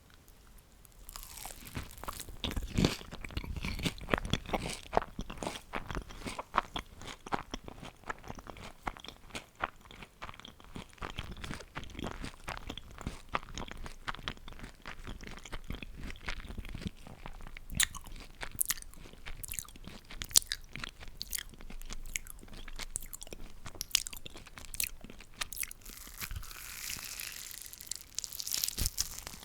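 Close-miked biting and chewing of crunchy food, a dense run of crisp crunches that starts about a second in, with a softer hissing stretch near the end.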